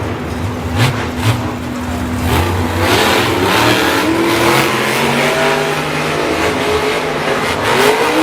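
Monster truck's supercharged V8 engine revving up and down, with a couple of sharp bangs about a second in.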